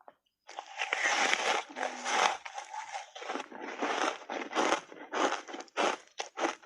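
A big bite crunching through reshaped foam ice coated in matcha powder: a dense, crackling crunch lasting about two and a half seconds, then chewing crunches about two or three a second.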